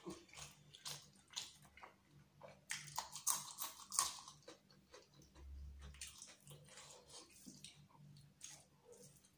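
Close-up eating sounds: wet chewing and lip smacks, with a cluster of sharp crunching bites into a raw green chili about three to four seconds in.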